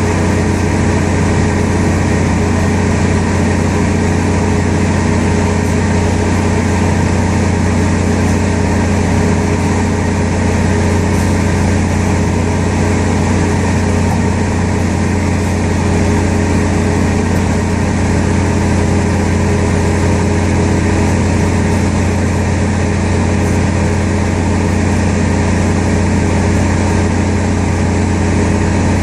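Steady engine noise of an aircraft pushback: a heavy engine hum running at one constant speed, with several steady tones over a wide rushing noise.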